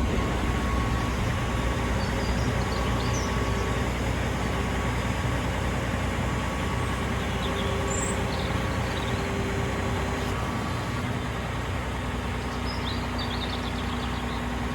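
Caterpillar 730C articulated dump truck's diesel engine running steadily.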